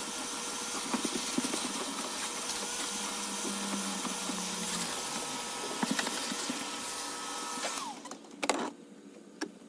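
Vacuum cleaner running steadily with a hissing rush and occasional light knocks, then switched off about eight seconds in, its motor whine falling as it spins down; a couple of sharp knocks follow.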